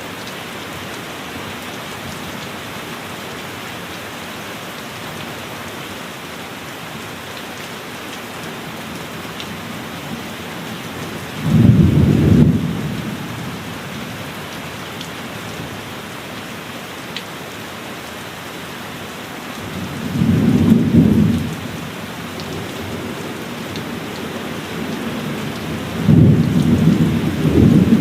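Steady heavy rain with three loud, low rolls of thunder, each lasting a second or two, about 11 seconds in, about 20 seconds in and near the end.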